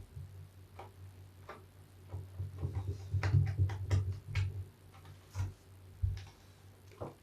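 Big soapy bath sponge full of soap scraps being squeezed and kneaded by hand, giving irregular wet crackles and clicks that come thickest in the middle stretch, over a low steady hum.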